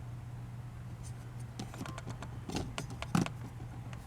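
Small diecast toy parts clicking and tapping as they are handled, the loudest a sharp knock about three seconds in, over a steady low hum.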